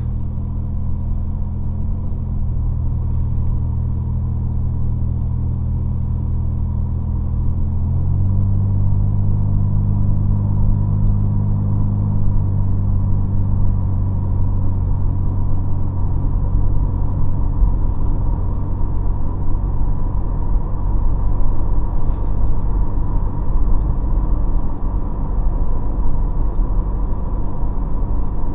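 2005 Chevrolet Cobalt with a custom exhaust driving, heard from inside the cabin. A low, steady engine drone steps in pitch about two seconds in and again about eight seconds in, then blurs into louder road rumble.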